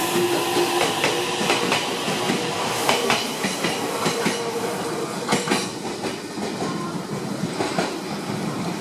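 Meitetsu electric train moving along the platform track, its wheels clicking over rail joints several times a second, with a steady motor hum at the start that fades.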